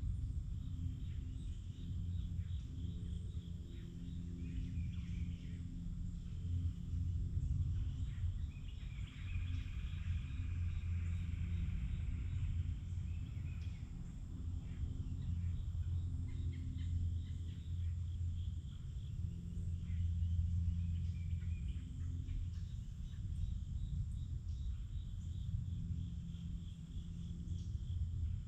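Forest ambience: a steady low rumble under scattered distant bird chirps and insect calls, with a denser buzzing chorus for a few seconds near the middle.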